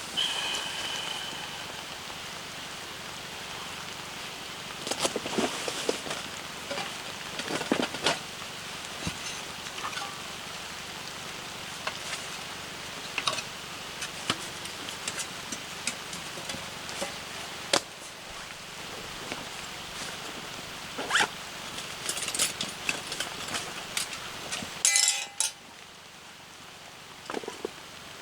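Small wood fire crackling in a compact stove, a steady hiss broken by scattered sharp pops and clicks. The sound drops off suddenly near the end.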